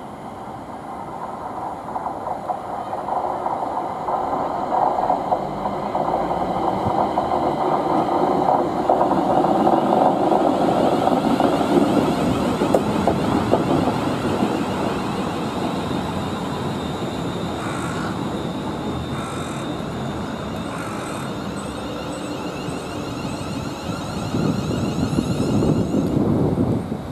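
Class 360 Siemens Desiro electric multiple unit running past along the platform, the rumble of its wheels on the rails building over the first few seconds and easing later, with a second swell near the end.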